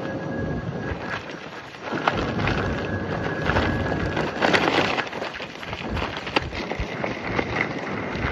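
Nylon tracksuit fabric flapping and cracking rapidly in strong gusting wind, with wind buffeting the microphone; the flapping is loudest in a gust about halfway through.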